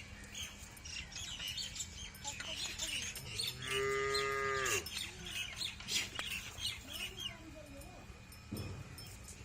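A cow moos once, a call lasting about a second a few seconds in, with birds chirping and a faint low steady hum behind it.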